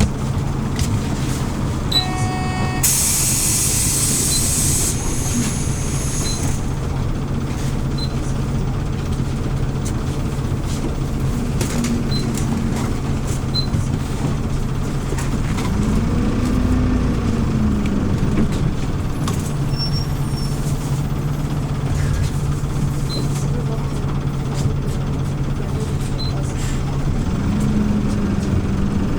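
2013 Hyundai New Super Aero City CNG bus engine running steadily, heard from inside the bus. About three seconds in there is a loud hiss of released air from the pneumatic brakes lasting about two seconds, and around the middle and again near the end the engine note rises and falls as the bus pulls away and accelerates.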